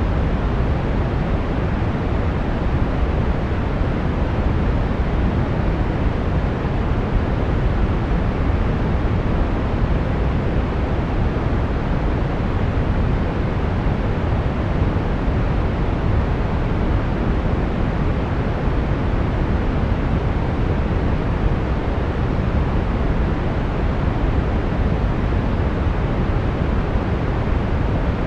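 Steady brown noise: an even, deep rushing hiss, strongest in the low end and fading toward the highs, with no changes.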